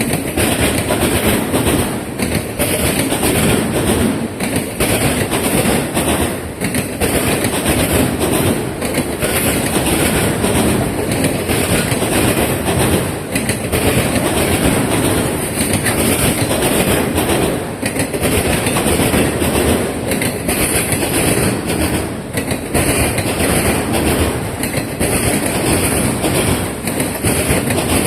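Norfolk Southern freight train of autorack cars rolling over railroad diamond crossings, its wheels clattering and banging steadily over the gaps in the crossing rails.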